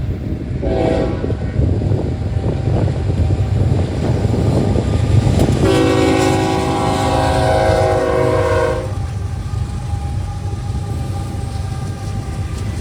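BNSF freight locomotive horn sounding for a grade crossing: a short blast about half a second in, then a long blast of about three seconds, over the steady rumble of the approaching diesel locomotives.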